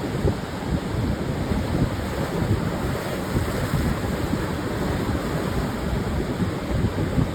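Pacific surf breaking and washing on a sandy beach in a steady rush, with wind buffeting the microphone in uneven low rumbles.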